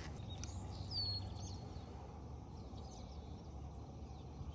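Faint steady background noise with one short bird chirp about a second in.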